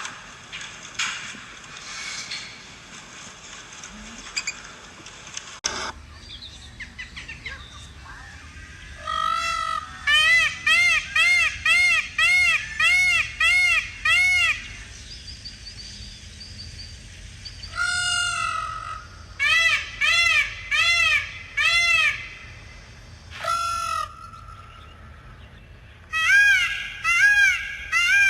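A bird calling in three bouts of repeated calls, about two a second, each call rising and falling in pitch. Before the first bout there are a few seconds of rustling noise with clicks.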